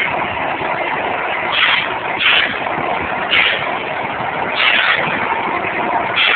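Truck noise: a steady rushing sound with repeated short hissing bursts.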